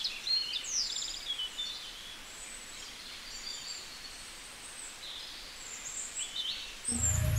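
Birds chirping: a quick rapid trill near the start, then scattered short calls and twitters over a faint steady hiss. A low hum comes in near the end.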